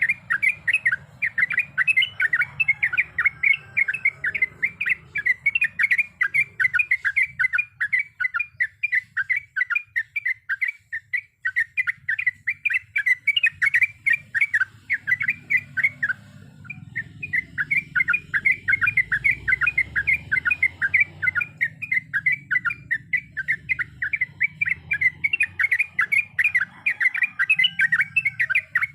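Yellow-vented bulbul (trucukan) singing a long, fast rolling song of repeated bubbly notes, about four to five a second, with a brief pause about sixteen seconds in.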